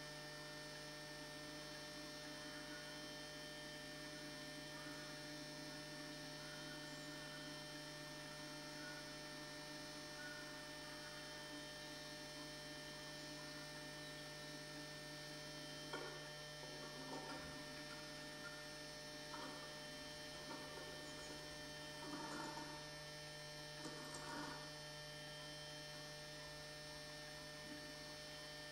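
Steady electrical mains hum from the nest-box camera's audio feed. Faint short scratches and rustles come in a few times through the second half.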